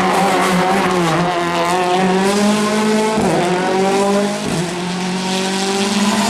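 Rally car engine running hard at high revs, its note wavering in pitch, with two brief breaks about three and four and a half seconds in.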